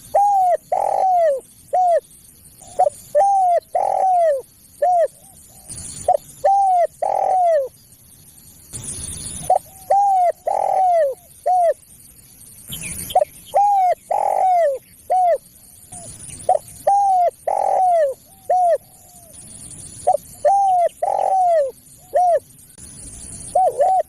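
Spotted dove cooing, its song played as a lure call: repeated phrases of three to five short arched coos, a new phrase every two to three seconds, with brief bursts of hiss between a few phrases.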